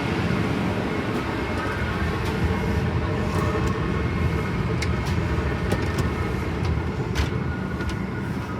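Steady roar of a Boeing 777-300ER's cabin in flight, the constant noise of airflow and jet engines, with a few faint clicks and clatters at scattered moments.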